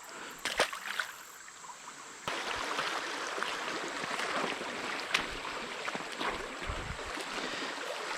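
Creek water rushing in the shallows, with irregular small splashes and clicks. It comes in suddenly about two seconds in, after a quieter stretch with a few ticks.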